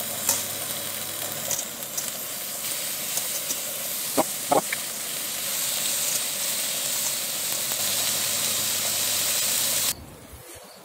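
Zucchini slices sizzling with a steady hiss as they are laid one by one onto a hot ridged grill pan, with faint ticks as they go down and two brief sharp sounds about four seconds in. The sizzle cuts off suddenly shortly before the end.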